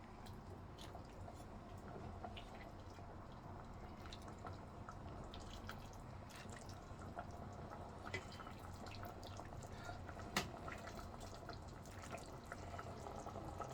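Faint, irregular small pops and drips of hot soup bubbling in the pot over a low steady hum, with one sharper click a little after ten seconds in.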